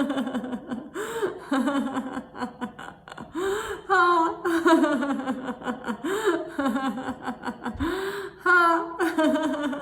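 A woman laughing heartily in repeated bursts, with sharp gasping breaths between them: forced laughter-yoga laughter.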